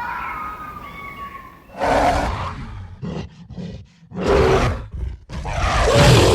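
A large animal giving three loud, rough, roar-like calls, with short grunts between them. A thinner, higher-pitched call comes before the first.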